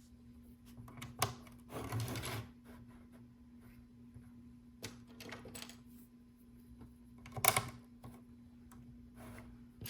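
Small plastic LEGO pieces clicking and rattling as they are picked through and handled, in a few short bursts, the loudest about three-quarters of the way through, over a steady low hum.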